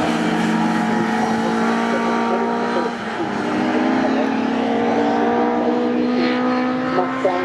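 Several racing touring car engines running together at a steady, held pitch, with a slight change in the mix about three seconds in.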